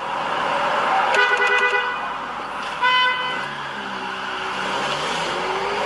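A car horn sounds twice, the first blast about a second in and a shorter one about three seconds in, over steady road traffic noise. Near the end, a vehicle engine's pitch rises and falls.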